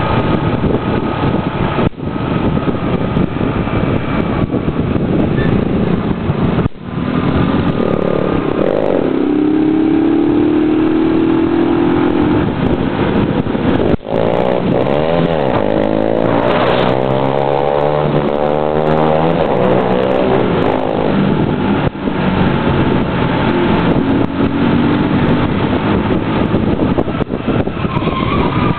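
Motorcycle engines revving and riding past, their pitch climbing and falling. In the middle several bikes' engine notes overlap and cross each other.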